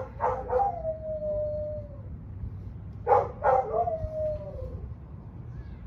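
A dog howling twice: each time a few short yelps sliding into a long, slowly falling howl. It is a dog shut in at a boarding kennel, howling from being left there, over a steady low rumble.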